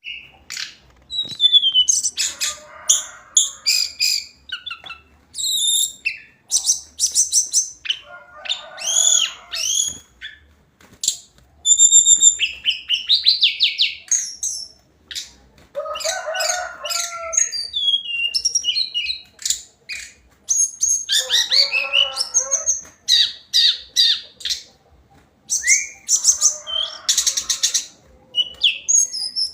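Hill blue flycatcher singing: quick, high whistled and warbling phrases delivered in bursts with short pauses between them. Lower, rougher notes come in under several of the phrases.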